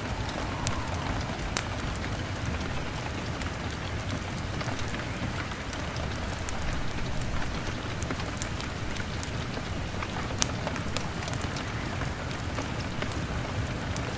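Steady rain pattering on a window, with scattered sharp crackles and pops from a fire.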